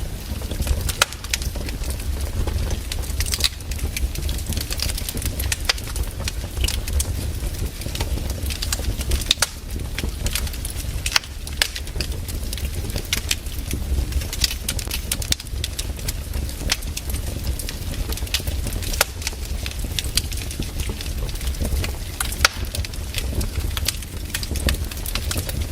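Burning firewood crackling, with irregular snaps and pops scattered over a steady low rumble.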